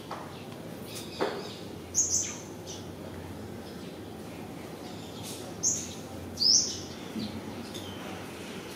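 Small birds chirping: a few short, sharp chirps, some falling in pitch, the loudest a little past the middle.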